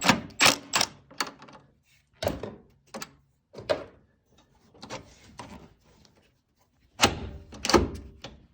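Irregular metal clanks and knocks of hand tools working the bolts of an adjustable camber/caster strut mount plate while its caster setting is loosened. There is a cluster of strikes at the start, a few single knocks, then a louder cluster near the end.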